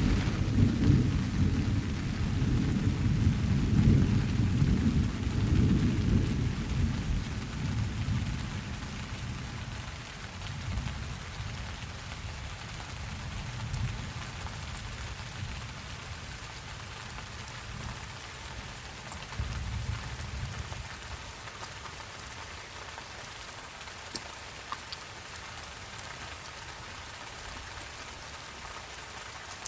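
Steady rain falling, with a low roll of thunder that is loudest over the first few seconds and dies away by about ten seconds in. A fainter low rumble rises and fades again about twenty seconds in.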